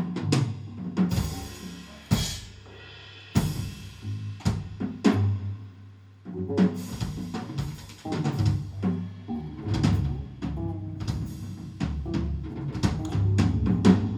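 Live band music with the drum kit to the fore: kick drum, snare and cymbal hits over a steady bass line and other instruments, in an instrumental passage.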